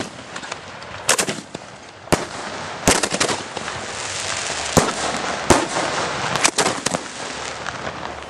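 Aerial fireworks shells firing and bursting close by: a series of sharp bangs, roughly one a second, over a steady hiss.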